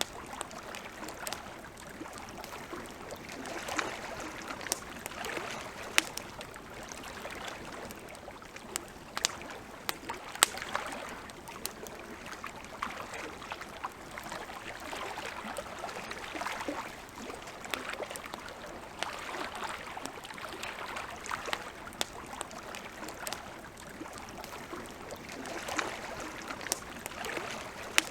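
Wood campfire crackling, with irregular sharp pops and snaps. Underneath, lake water laps in soft swells that rise and fade every few seconds.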